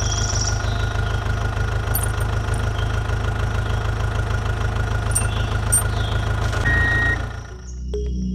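Engine running steadily at idle, with a constant drone and a short electronic beep near the end. It fades out in the last second.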